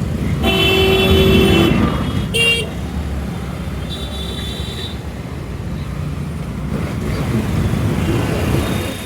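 Road traffic with vehicle horns honking. A long honk starts about half a second in and a short one comes at about two and a half seconds; fainter, higher horn tones follow later. Under it all runs a steady low rumble of road and wind noise.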